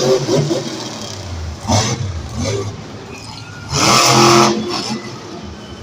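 Monster truck engine revving hard in surges, with the two loudest bursts about two and four seconds in.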